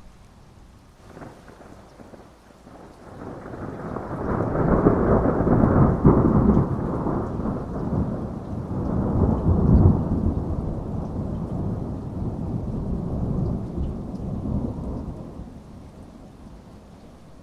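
Thunderstorm: a short crack of thunder about a second in, then a long rolling rumble that builds, peaks in the middle and dies away near the end, over steady heavy rain.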